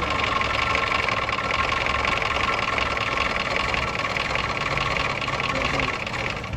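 Toyota Corolla GLI's engine idling steadily, with a constant whine riding over the running.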